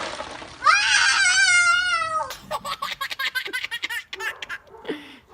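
A small child gives one long, high-pitched squeal of excitement, then breaks into quick, choppy giggling.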